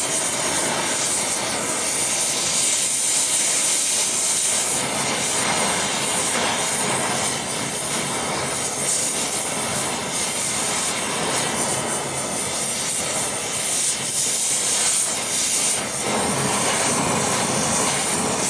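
Gas heating torch flame hissing steadily as it heats the bent steel drag link, which is not yet hot enough to straighten.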